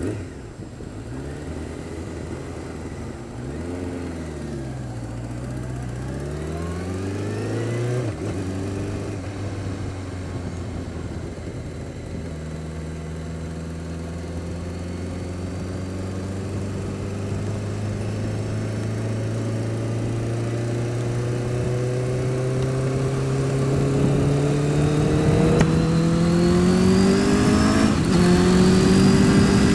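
Honda Fireblade's inline-four engine running. Its pitch wavers up and down for the first several seconds, then settles and climbs slowly and steadily, growing louder.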